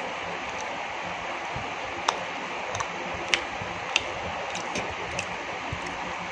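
A person chewing food, with a few short sharp mouth clicks and smacks, the loudest about two, three and four seconds in, over a steady hiss.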